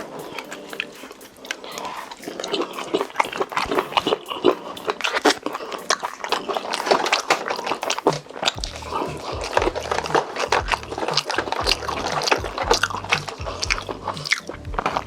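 Close-miked chewing of boneless chicken feet in spicy sauce: many quick, wet, sticky clicks and smacks, with duller thuds joining about halfway through.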